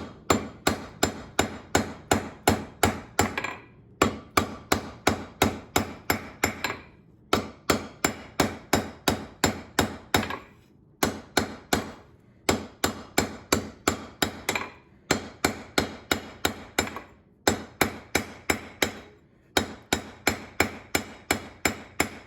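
Hand hammer forging steel on an anvil: quick, even blows about three to four a second, in runs of several seconds separated by short pauses.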